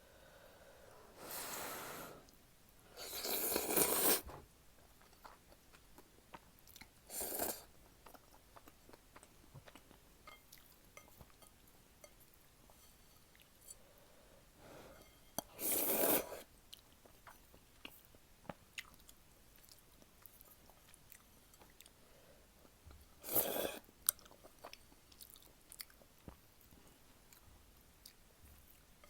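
Close-miked eating of jjapaguri noodles: five loud slurps of about a second each, with quiet chewing and small mouth clicks between them.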